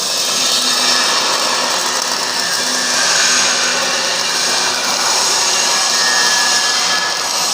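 CO2 (MIG) welding arc crackling and hissing steadily as a bead is laid, with a faint low hum under it.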